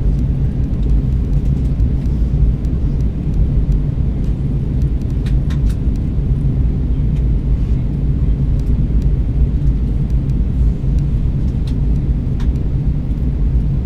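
Steady low rumble of an Airbus A320's cabin during descent: engine and airflow noise heard from inside the passenger cabin, with a few faint ticks.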